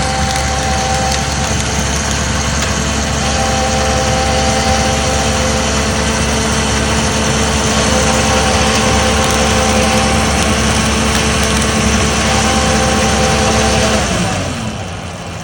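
An engine running steadily, its pitch and level dropping as it slows about fourteen seconds in.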